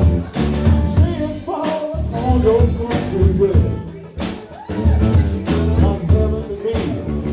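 Band playing live: drum kit keeping a steady beat under bass and a singing voice.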